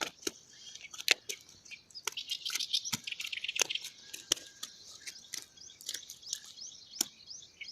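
Small birds chirping in quick, repeated high calls, with a few sharp clicks or taps now and then.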